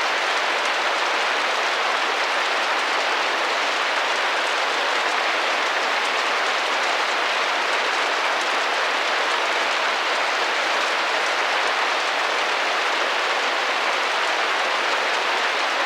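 Steady rain pattering on a window pane, an even hiss of many small drops with no pauses.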